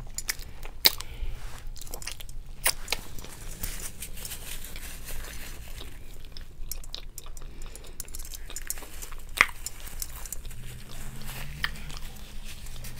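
Close-miked chewing of a bite of burger: a steady run of wet mouth clicks and smacks, with two sharper clicks, one about a second in and one near nine and a half seconds.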